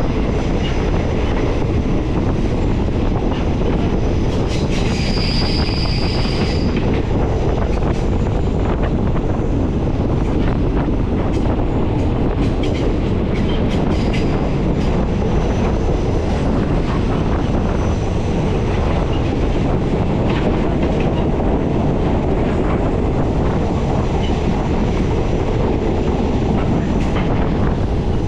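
Passenger train running along the rails, heard from on board: a loud, steady rumble of wheels and carriage with faint rail clicks. A brief high-pitched squeal comes about five seconds in.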